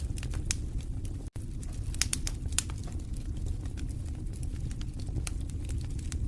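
Wood fire burning in a fireplace: a steady low rumble of flames with irregular crackles and snaps, the sharpest pops about two seconds in. The sound drops out for an instant a little over a second in.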